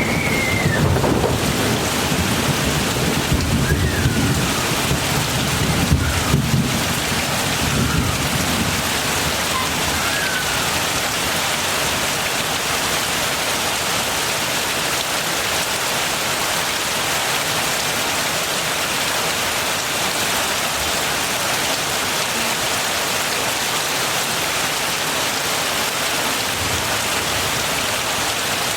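Heavy rain falling steadily, a dense even hiss. A low rumble of thunder rolls through the first several seconds and dies away.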